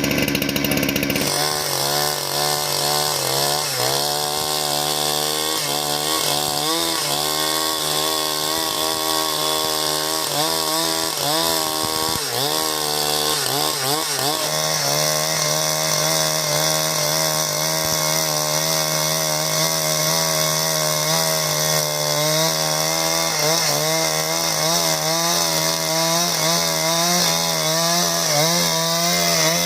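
Two-stroke chainsaw running at high speed while cutting timber into beams. Its engine pitch wavers up and down as the chain loads and frees in the cut, and the sound changes just after a second in.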